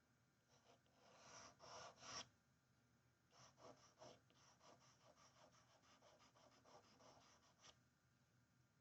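Charcoal pencil scratching faintly on paper: a few longer strokes in the first couple of seconds, then a run of quick short strokes.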